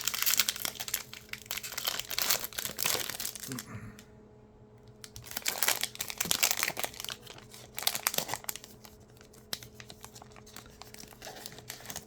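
Trading card pack wrapper being torn open and crinkled by hand, in irregular bursts with a short pause about four seconds in.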